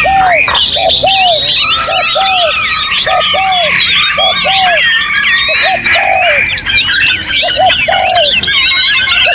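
Dense chorus of many songbirds singing at once, with a constant tangle of high chirps and whistles, and a low hooting note repeating about one and a half times a second underneath.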